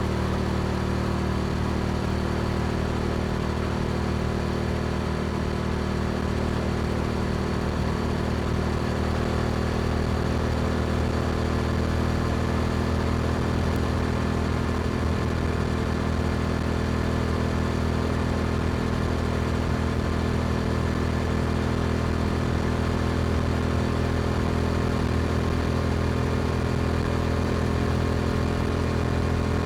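Yamaha R7's parallel-twin engine breathing through an Akrapovic exhaust, running at a steady cruise with its note holding at one pitch.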